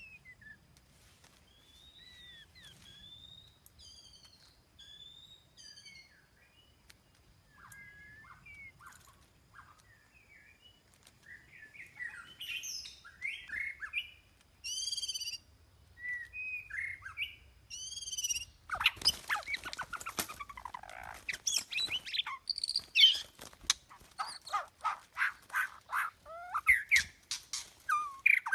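Birds chirping and calling: scattered faint whistled chirps at first, then a dense, much louder run of overlapping calls from about two-thirds of the way in.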